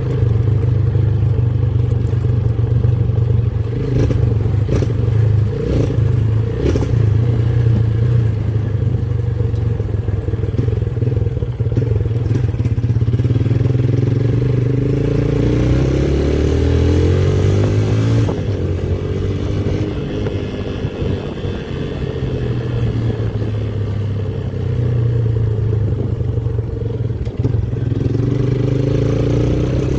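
Motorcycle engine running under way, a steady low hum whose pitch sags about halfway through and climbs again near the end as the revs change. A few sharp clicks sound early on.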